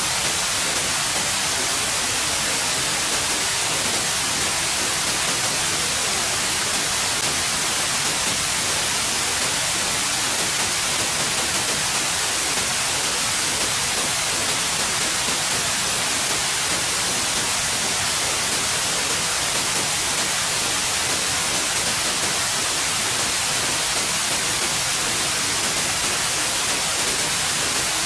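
Steady white noise: an even, unchanging hiss, brightest in the highs, with no variation.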